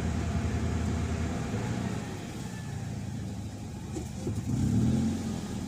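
Toyota Vios engine idling, its note sinking and getting quieter about a second and a half in. The engine has an idle that sags toward stalling and shakes.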